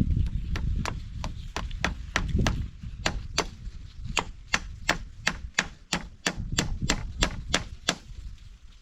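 Steady, rapid chopping strikes, about three a second, each a sharp crack, stopping shortly before the end.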